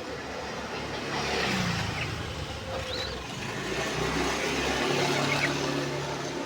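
A motor vehicle passing, its engine hum swelling about a second in and easing off near the end, with a few short faint bird chirps over it.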